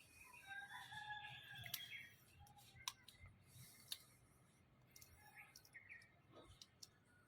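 African grey parrot giving faint, short calls, with three sharp clicks about a second apart and a few softer calls near the end.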